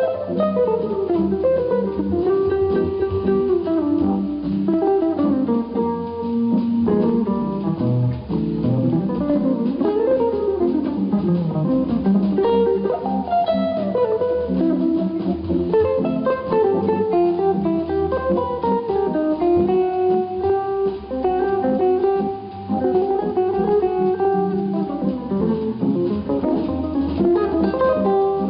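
Jazz guitar solo on an electric archtop guitar: flowing single-note lines moving up and down over low accompanying notes.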